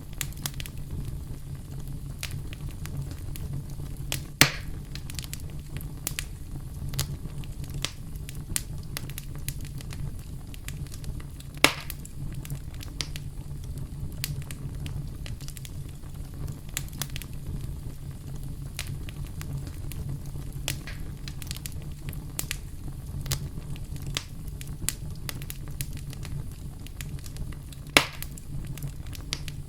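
Wood fire crackling: a steady low rumble under a constant scatter of small snaps and pops, with three louder pops spread through.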